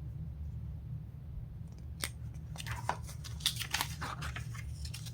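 Glossy paper catalog pages being handled and turned, with a burst of crisp crackles and rustles starting about two seconds in, over a steady low hum.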